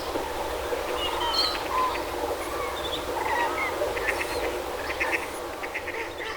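Ducks and geese calling on a pond, over the steady rushing of water through a sluice. Calls come in short rising-and-falling honks, with a quick run of short chattering calls about two-thirds of the way in.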